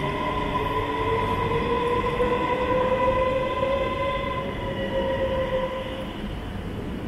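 Øresundståg electric multiple unit pulling out of the platform, its drive giving a whine that rises in pitch as it picks up speed, with steady higher tones above it. The sound fades away about six seconds in.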